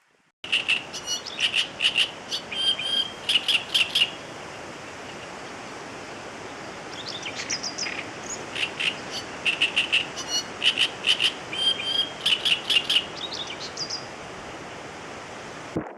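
Birds chirping in two runs of short, quickly repeated high calls over a steady background hiss.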